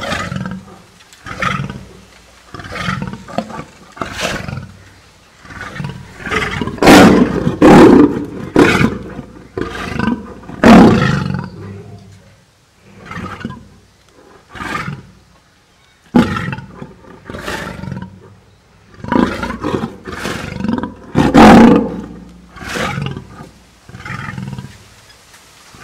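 Male lion roaring in a long run of short, loud calls about a second apart, with a brief lull around the middle; the loudest come about a third of the way in and again near the end.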